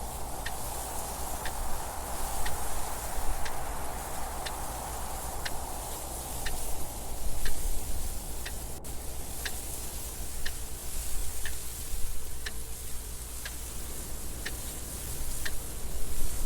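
Clock ticking evenly, about once a second, over steady wind noise that swells in gusts.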